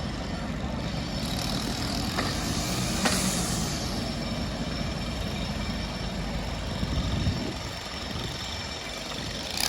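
Heavy diesel plant, excavators and a truck, running steadily with a low engine rumble. A hiss of air rises about a second in and fades a few seconds later, with a couple of faint knocks along the way.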